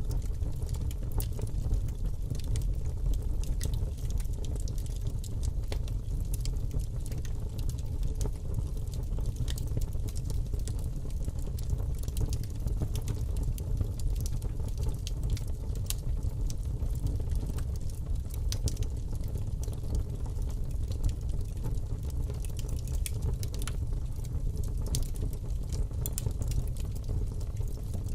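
Wood fire burning in a fireplace, crackling steadily with frequent small sharp pops over a low rumble of the flames.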